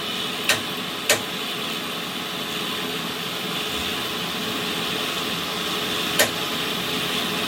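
Three sharp knocks, two close together near the start and one about six seconds in, over a steady mechanical hum.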